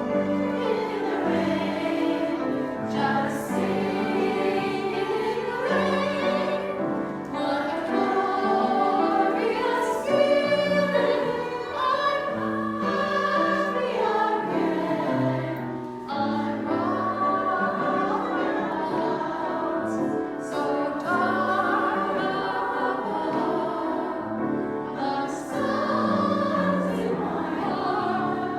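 A choir singing with musical accompaniment, with long held notes.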